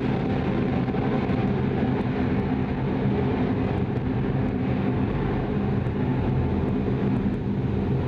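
Soyuz ST-B rocket's first-stage engines in ascent shortly after liftoff: a loud, steady roar with a deep rumble.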